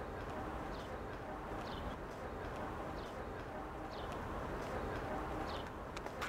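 A bird giving a short, high, falling chirp about once a second over steady outdoor background noise.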